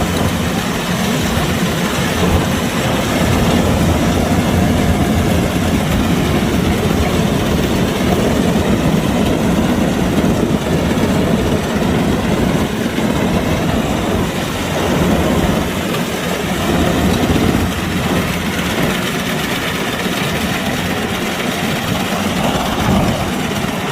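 Kubota DC-105X rice combine harvester running steadily, its diesel engine and machinery giving a continuous loud drone with small swells in level.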